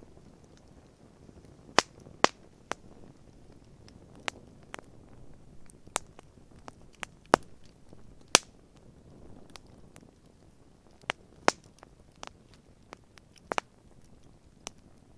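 Wood campfire crackling: irregular sharp pops and snaps, more than a dozen, over a low steady hiss.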